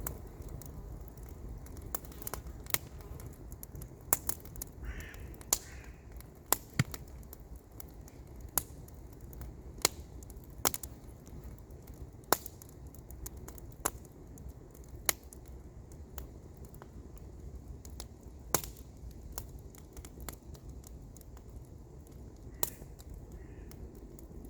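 Wood campfire crackling: sharp, irregular pops and snaps, a few louder than the rest, over a low steady background rush.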